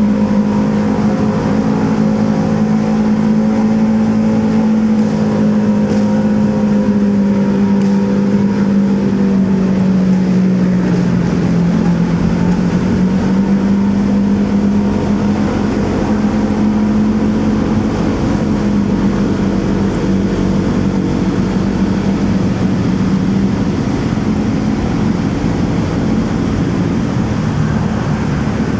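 Motorcycle engine running steadily while riding, its pitch sagging briefly about halfway through and then picking up again, with road and wind noise from the traffic around it.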